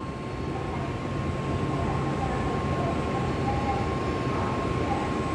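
N700S Shinkansen train rolling slowly alongside the platform as it draws to a stop on arrival: a steady low rumble with a thin steady tone above it.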